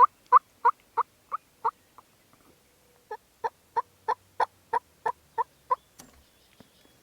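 Turkey yelping: two runs of short, evenly spaced yelps at about three a second, the second run starting about three seconds in.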